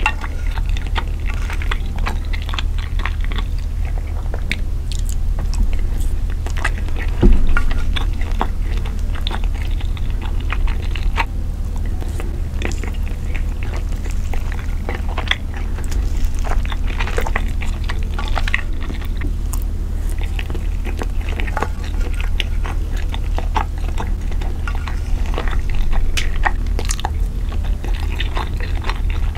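Close-miked ASMR eating: slow, wet chewing of sauced fusilli pasta, full of small mouth clicks and smacks, over a steady low hum. There is one louder knock about seven seconds in.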